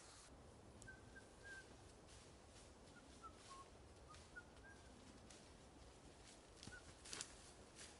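Near-silent woodland ambience with a small bird's faint, short high call notes scattered through the first half and once more near the end, and a brief rustle near the end.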